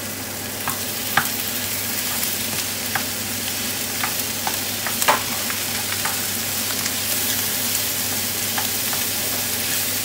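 Raw pork mince frying with onion and garlic in a hot non-stick wok, sizzling steadily, while a plastic spatula breaks it up and stirs it, with scattered clicks and scrapes against the pan, the loudest about five seconds in. This is the mince just going into the pan to brown.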